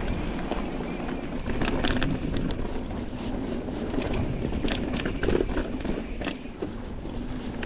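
Nukeproof Reactor full-suspension mountain bike ridden fast down a dirt trail: steady tyre and wind noise with frequent clattering knocks and rattles from the bike. Part of the rattle is internal cable rattle, from a grommet that has worked loose in the frame's cable routing.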